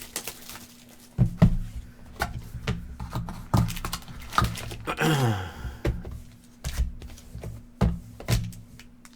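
Handling and opening a sealed cardboard box of trading cards: scattered knocks and thunks of the box and packs on the table, with a brief rip falling in pitch about five seconds in as the wrapping is torn open.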